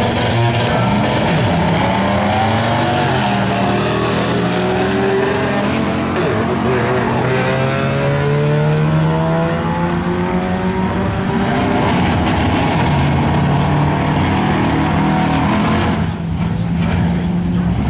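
The V8 engines of a Pontiac Firebird street car and a Camaro drag car running loudly in the staging lanes, revving up and falling back several times over a steady idle.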